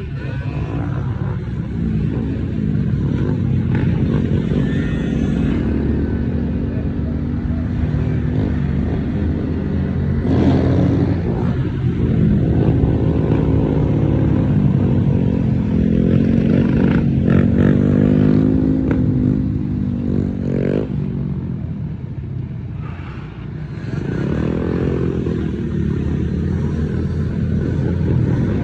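Small-displacement motorcycle engines revving and passing, their pitch rising and falling several times as riders pull wheelies.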